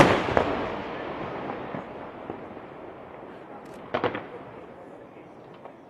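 A loud firework shell bursting at the start, its boom echoing and fading away over a couple of seconds. About four seconds in comes a short cluster of crackling firework reports.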